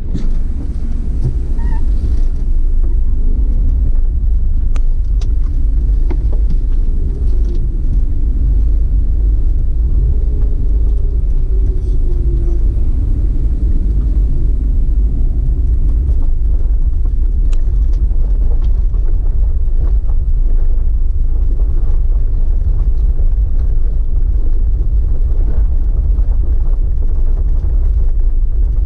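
Loud, steady low rumble of a waterfall heard up close, a heavy roar of falling water without let-up.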